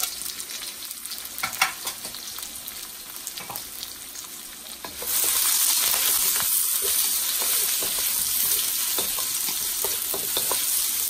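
Diced onion frying in hot oil in a wok and being stirred with a wooden spatula: scrapes and clicks over a light sizzle, which jumps suddenly to a loud, steady sizzle about five seconds in.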